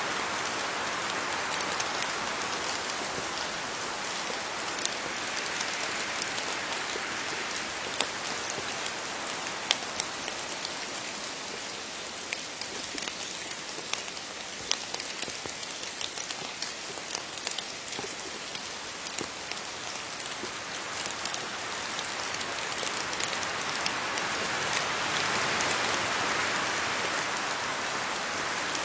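Steady rain falling on leaves: an even hiss of rainfall with many separate drops pattering sharply, the wash swelling a little near the end.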